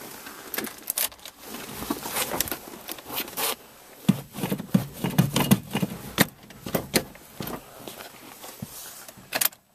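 Keys jangling with rustling, scraping and irregular knocks and clicks: someone handling keys and moving about inside a car.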